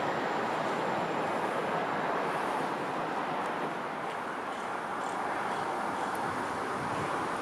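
A train passing through the station: a steady rush of wheel and air noise.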